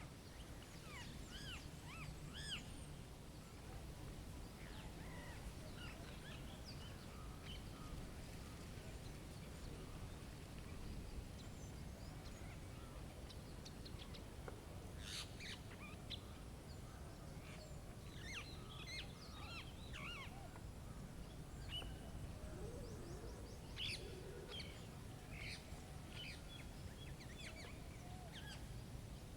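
Outdoor ambience: birds chirping and calling on and off, many short high calls, over a steady low rumble.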